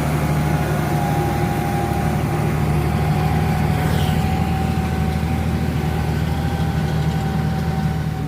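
Heavy truck engine running steadily, a low hum with a thin steady whine above it.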